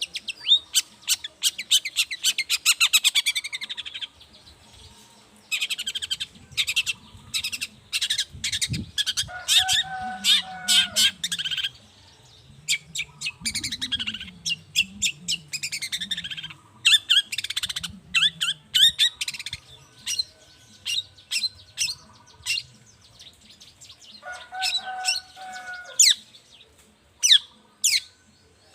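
Long-tailed shrike (cendet) singing in full voice: a rapid, varied run of sharp chattering notes and trills in bursts with short pauses. A lower call of a few drawn-out notes comes twice, about ten seconds in and near the end.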